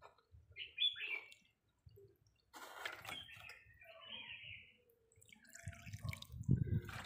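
Small birds chirping now and then in the background: a few short, faint chirps. A low rumble comes in near the end.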